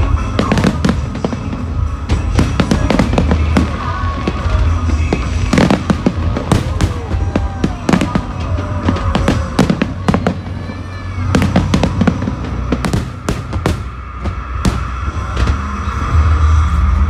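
Fireworks display: a rapid, continuous run of aerial shell bangs and crackling bursts, with music playing along.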